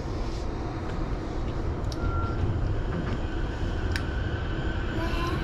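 Electric commuter train heard from inside the carriage as it pulls away from a station: a steady low rumble, a sharp click about four seconds in, and a rising whine near the end as it gathers speed.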